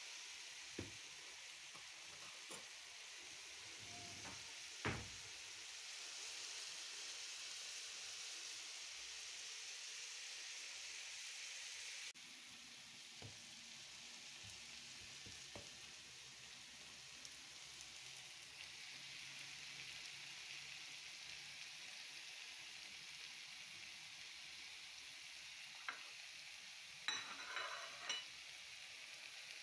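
Wild greens sizzling as they fry in a pan, with a few sharp clicks of a stirring utensil, the loudest cluster near the end.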